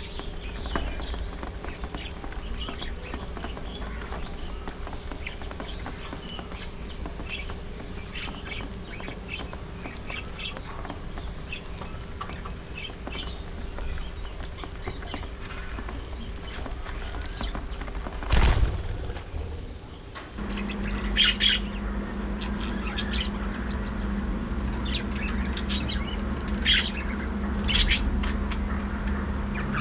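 A budgerigar flock chattering with many short chirps and squawks. About two-thirds of the way through there is a brief loud knock, and after it a steady low hum runs under louder chirping.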